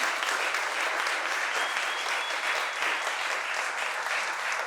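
Audience applauding steadily at the end of a spoken poem, with a brief faint whistle partway through.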